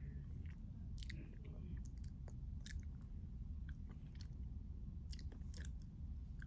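Close-miked chewing of a Keto Pint Triple Chocolate Crunch Bar, with irregular small crisp crunches and mouth sounds, over a steady low hum.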